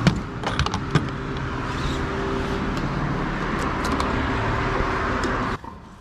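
Honda CB400 Super Four's inline-four engine running steadily with a deep exhaust note, a few sharp clicks in the first second. The sound cuts off suddenly near the end.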